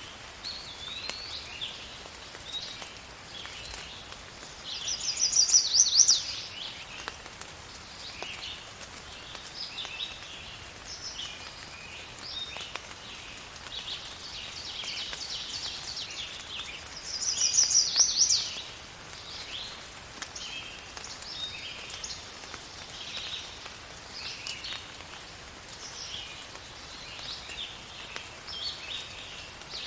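Birds chirping and calling throughout in short high notes over a faint steady hiss. Twice, about twelve seconds apart, a louder fast rattling trill stands out.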